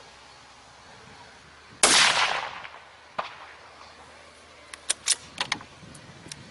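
A single loud rifle shot from a Remington 700 XCR in .308 Win, its report dying away over most of a second. About 1.3 seconds later comes a short, sharp crack, the timing of a bullet strike on a steel gong at 300 m, and near the end a quick run of clicks.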